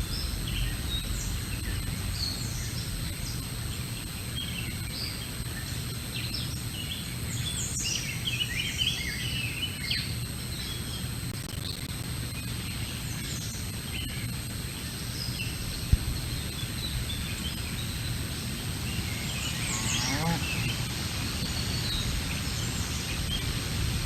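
Small songbirds chirping and calling over a steady low outdoor rumble, busiest in the first part, with a quick series of falling notes about two-thirds of the way through and a single sharp click shortly before it.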